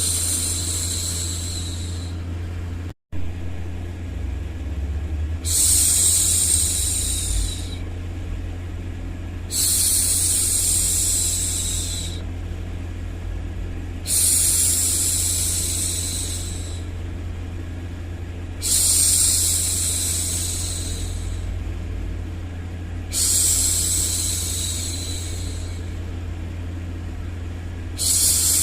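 A woman's voice making long hushing 'shhh' sounds to soothe a baby, each about two seconds long and repeated every four to five seconds, six times plus one tailing off at the start. A steady low hum runs underneath, with a brief cut-out about three seconds in.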